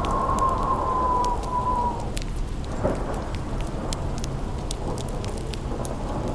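Storm and fireside ambience: steady rain with a rumble of thunder, a howling wind whistle that fades out about two seconds in, and sharp crackles from a burning fireplace throughout.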